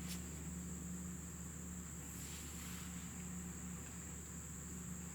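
Quiet, steady background: a thin continuous high-pitched whine or trill, together with a low steady hum, with a faint click near the start and a soft rustle a couple of seconds in.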